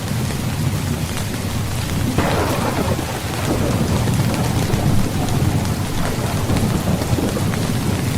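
Steady heavy rain with thunder: a clap breaks about two seconds in and rumbles on through the rest.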